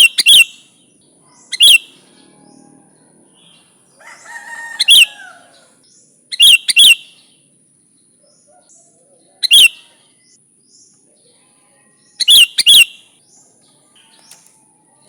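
Sooty-headed bulbul calling: loud, sharp notes, often in quick pairs, repeated every one to three seconds, with a softer run of warbling chatter about four to five seconds in.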